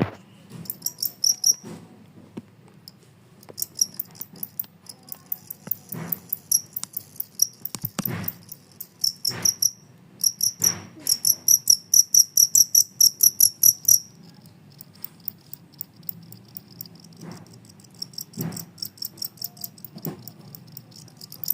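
Two-spotted field cricket (jangkrik kalung) chirping: high-pitched trains of rapid pulses in bouts of a few seconds, broken by short pauses. Scattered knocks and a faint low hum sound beneath it.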